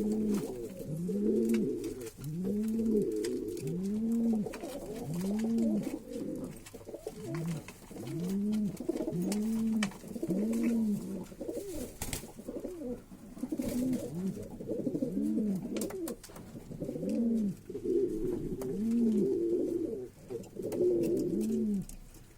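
Pigeons cooing over and over: low coos that rise and fall, about one a second, overlapped by higher coos.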